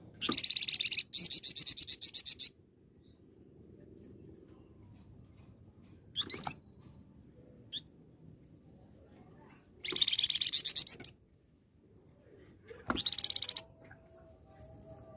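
Flamboyan songbird singing loudly in bursts of rapid, trilled chatter. There are four bursts of one to two seconds each, with a short single note between the first two.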